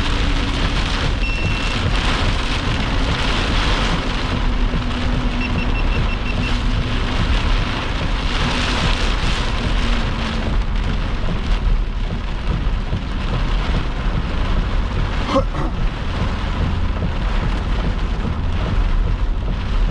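Heavy rain falling on a moving vehicle's roof and windshield, heard from inside, over a steady low rumble. One brief sharp sound about fifteen seconds in.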